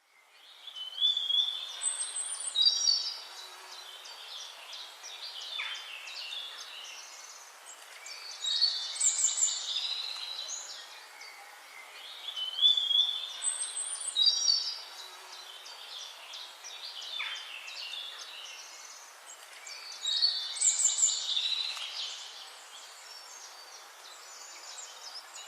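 Bird song: short phrases of high whistles, trills and chirps come over a steady background hiss, the same sequence of phrases coming round again about every 11 to 12 seconds.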